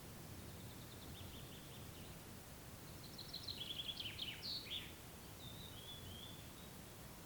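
Songbirds singing over a steady low background rumble: a faint run of high notes about a second in, a louder rapid phrase of chirps and sweeps from about three to five seconds, then a short soft phrase.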